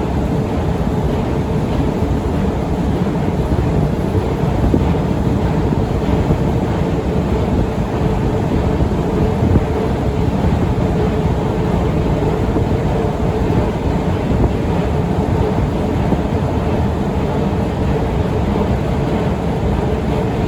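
Otis escalator running, a steady mechanical rumble with a faint constant hum over it.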